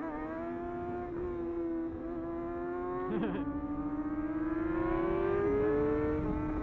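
Superbike engine running at high revs under way, holding a steady pitch with a brief break about three seconds in, then climbing in pitch and getting louder before dropping suddenly near the end, as with a gear change.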